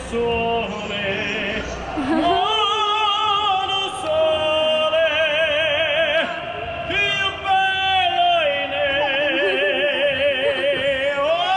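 A male gondolier singing in an operatic style, holding long notes with a wide vibrato.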